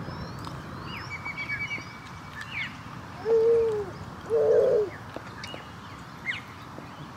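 Birds calling: two loud, drawn-out calls about three and four and a half seconds in, with fainter high chirps and twitters around them.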